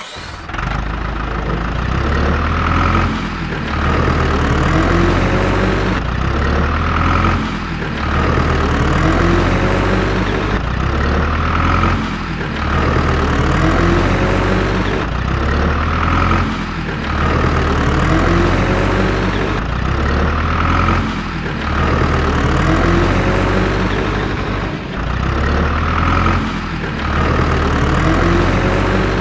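Tractor engine running steadily, with a swell that recurs about every four to five seconds.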